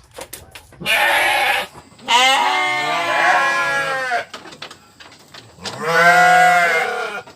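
Sheep bleating: a short hoarse call about a second in, then two long wavering bleats, the second near the end.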